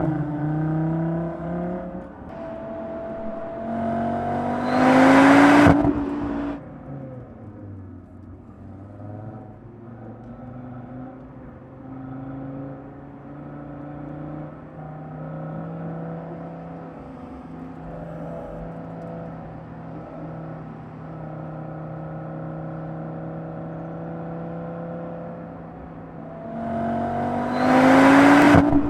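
Audi RS3's 2.5-litre turbocharged five-cylinder engine idling steadily and revved twice, about five seconds in and again near the end. Each time the revs rise to a loud peak and cut off sharply before falling back to idle.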